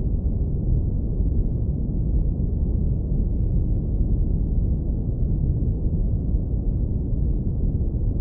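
Steady deep rumbling brown noise, filtered so that only the lowest frequencies remain, with no tones or changes.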